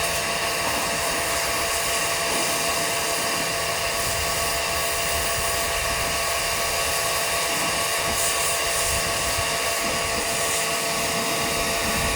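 Pressure washer running steadily: a constant motor hum with a broad hiss over it.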